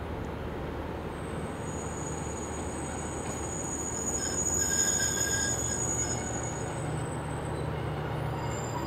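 A train running on the line, a steady low rumble with a thin high-pitched metallic squeal from the wheels on the rails. It grows louder about halfway through as the train comes closer.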